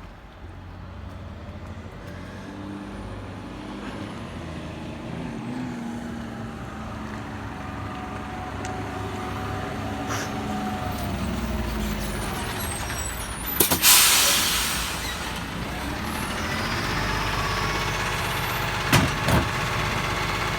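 Rubbish truck's engine running and building gradually in level as it works the bin lift, with faint gliding tones. About two-thirds of the way through comes a short, loud burst of air-brake hiss, and a couple of sharp knocks follow near the end.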